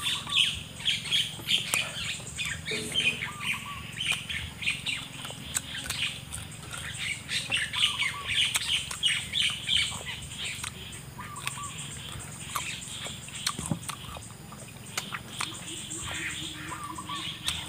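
Close-up chewing and crunching of raw fruit dipped in rujak sauce, as many short sharp crunches. Birds chirp and call in the background, one short call repeating every few seconds.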